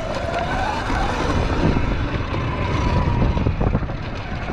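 Sur-Ron X electric dirt bike's motor whining under way on a trail, its pitch climbing in the first second and then holding steady, over a constant rumble of wind on the microphone with a few knocks from the trail.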